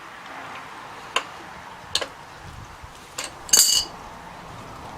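Metal tools and bike parts being handled: a few light clicks and knocks, then one louder, ringing metallic clink about three and a half seconds in.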